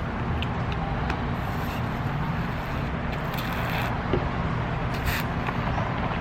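Steady road-traffic noise: a low, even engine drone with a few brief hisses.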